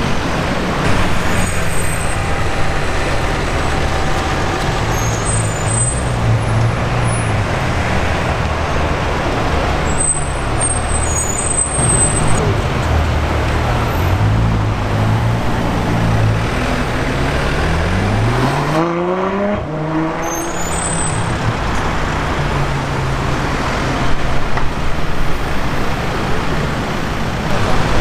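Supercar engines, among them Lamborghini Urus SUVs and a Ferrari F12, running through city traffic with a low steady rumble. About two-thirds of the way through, one engine revs up in a rising sweep that cuts off suddenly.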